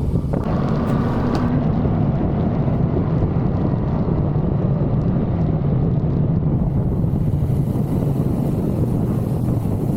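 1985 Suzuki GSX-R750F's inline-four engine running steadily as the motorcycle is ridden at low, even speed.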